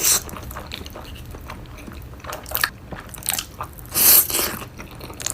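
Close-miked chewing of taco-flavour Buldak instant noodles: scattered short wet mouth sounds, with a louder burst at the start and another about four seconds in.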